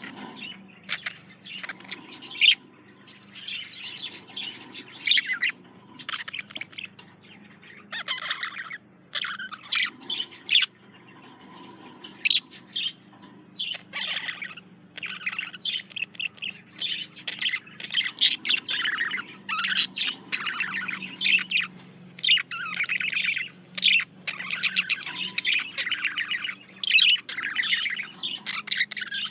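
Male budgerigar's courtship song: a run of fast chattering warble mixed with short chirps and the odd squawk.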